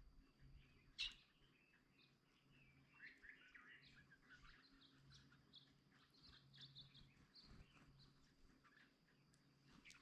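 Faint scattered bird chirps and chatter, densest between about three and seven seconds in, with a single sharp click about a second in.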